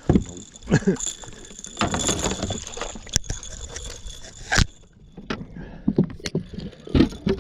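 Scattered clicks, knocks and rattles of fishing gear being handled aboard a boat while a hooked blue catfish is fought on rod and reel, with a faint steady high tone that stops about two thirds of the way through.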